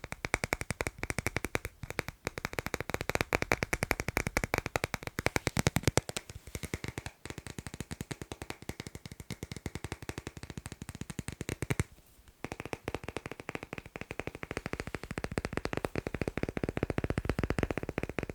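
Fast tapping on magnets: a dense, quick run of taps, with short breaks about seven and twelve seconds in.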